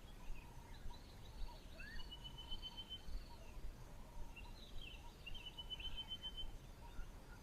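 Wild birds calling: a high, rapid, even trill about a second long, heard twice, with softer chattering calls in between.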